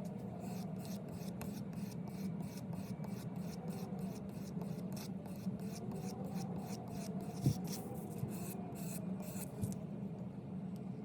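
Quick back-and-forth filing or rubbing strokes by hand on a small tool, about three or four a second, over a steady low hum. A single sharp knock comes about seven and a half seconds in.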